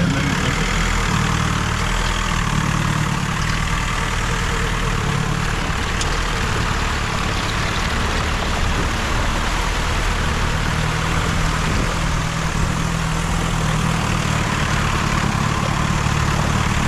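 Off-road vehicle's engine running steadily at low revs, a low rumble with a constant hiss over it.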